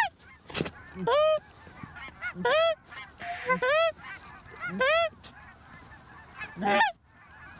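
Canada geese honking: about six loud, close honks a second or two apart, each rising then falling in pitch, with fainter honks and clucks between them.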